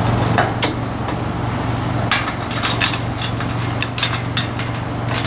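A vehicle engine running steadily at a low hum, with a scatter of sharp knocks and clicks over it, most of them in the middle of the stretch.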